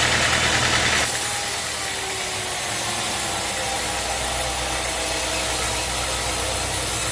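A sawmill's engine running steadily with a low drone. A louder, higher-pitched noise over it cuts off about a second in, leaving the engine running on its own.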